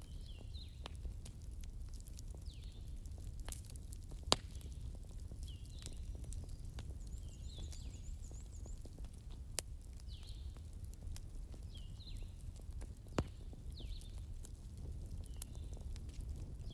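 Wood campfire burning with a steady low rumble and light crackling, with three sharper pops about four, nine and thirteen seconds in. A bird repeats a short high call every couple of seconds in the background.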